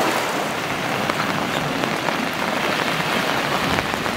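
Steady rain falling on the river and a wet pontoon, with many small individual drop hits.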